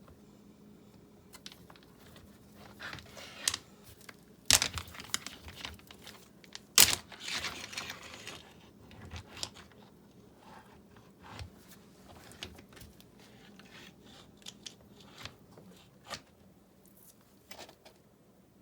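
Irregular knocks, clatters and rustling from building materials being handled, with two sharper, louder knocks about four and a half and seven seconds in.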